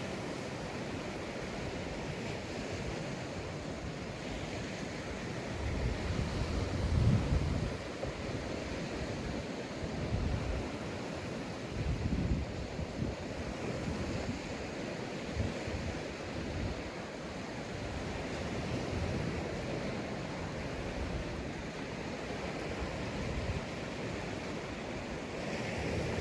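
Sea waves washing onto a sandy beach as a steady surf hiss, with wind buffeting the microphone in a few low gusts.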